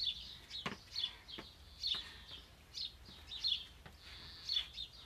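A small bird chirping over and over, short high calls about once a second, sometimes two close together, with a few faint clicks between them.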